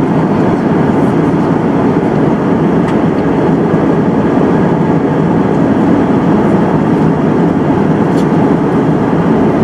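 Steady roar of jet airliner cabin noise in flight, the engines and rushing air heard from inside the cabin.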